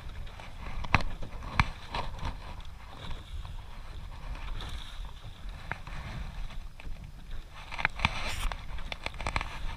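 Steady low rumble of wind and sea on a small fishing boat, with scattered sharp clicks and knocks, several of them close together near the end.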